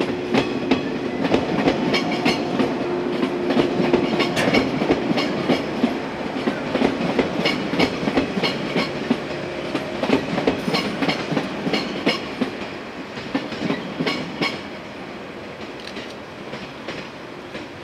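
Yellow JR West electric train (Okayama set A15) passing on the line, its wheels clacking over rail joints in an uneven rhythm over a rolling rumble. A steady hum is heard early on. The sound slowly fades toward the end as the train runs away.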